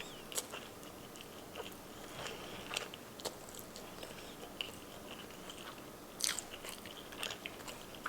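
Close-miked chewing and eating mouth noises: soft, irregular wet clicks and smacks, with a louder cluster about six seconds in.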